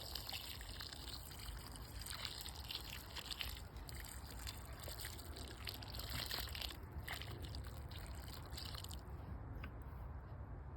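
Water pouring and trickling, a steady hiss broken by small crackles that eases off after about nine seconds, typical of watering a freshly planted blueberry.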